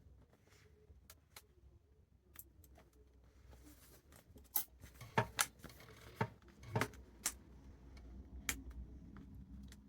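Scattered sharp clicks and taps of hand work on a leather bag, tools and parts being handled, the loudest cluster about five to seven seconds in, over a faint low hum.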